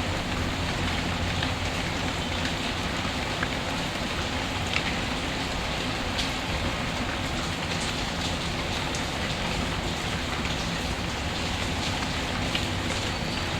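Steady rain mixed with a fireplace, with scattered faint crackles over the even hiss of the rain.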